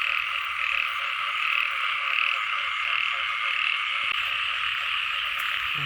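Dense chorus of frogs calling together, a steady pulsing din with fainter lower calls beneath.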